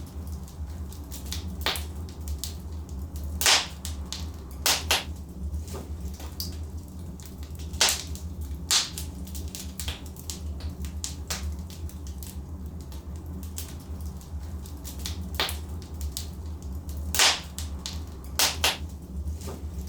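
Wood fire burning in a fireplace: a steady low rumble with sharp pops and crackles from the logs every second or two, the loudest about three and a half seconds in and again near the end.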